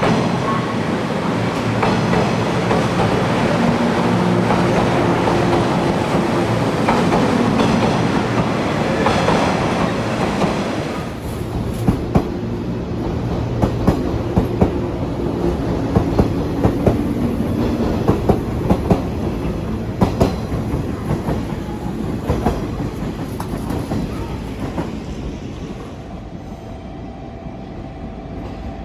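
JR Kyushu 415 series electric train running, with a steady rumble and then a run of rhythmic clacks as the wheels pass over rail joints, fading toward the end.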